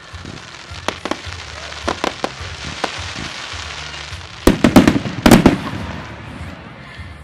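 Fireworks display: a steady hiss with scattered sharp reports, then a cluster of loud shell bursts about four and a half to five and a half seconds in, fading afterwards.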